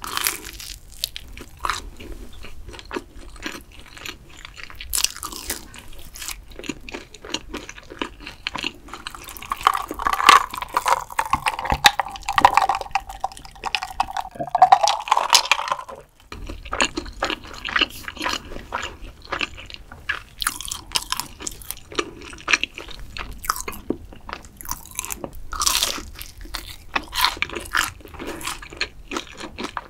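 Close-miked chewing and biting of crunchy food: pizza crust, then crispy fried boneless chicken. Cola from a glass is swallowed partway through.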